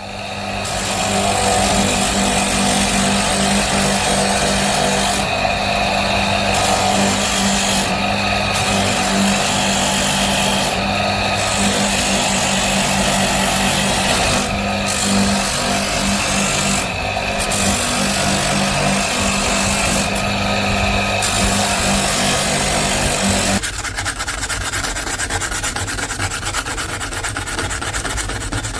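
Electric power tool abrading a workpiece, its motor humming steadily under a continuous rasping, sanding noise. About 23 seconds in the motor hum stops and a quieter, rapid rubbing continues.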